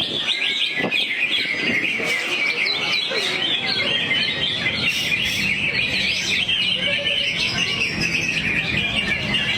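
Greater green leafbird (cucak hijau) singing its repertoire: an unbroken stream of rapid chirps, trills and mimicked phrases.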